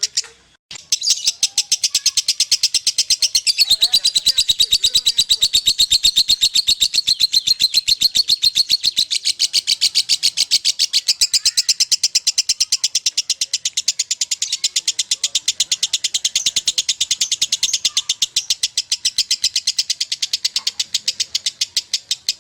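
Lovebird singing a long, unbroken chatter in the 'konslet' style: a fast, even string of sharp, high-pitched notes, many to the second. It pauses briefly just after the start and then runs on without a break.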